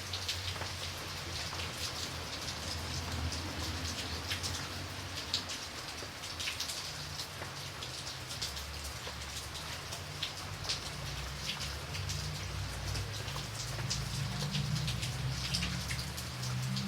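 Steady rain with many distinct drops hitting a surface, over a low rumble that swells a little near the end.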